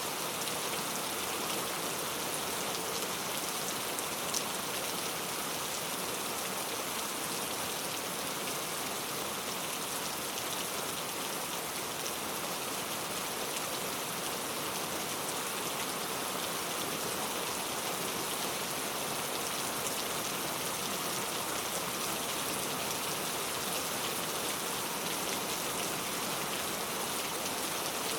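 Steady rain falling on a surface, an even hiss of many pattering drops, with a single louder drop about four seconds in.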